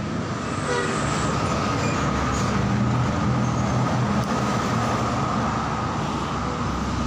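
Yamaha Vixion's single-cylinder fuel-injected engine idling steadily, a little louder after about a second.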